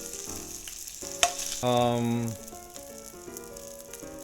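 Burger patty sizzling steadily in a frying pan, with a short pitched tone about two seconds in.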